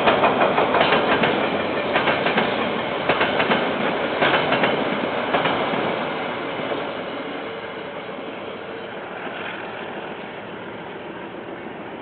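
KiwiRail train wagons rolling past, wheels clacking over the rail joints. The clacking stops about halfway through and the rumble fades away as the end of the train moves off.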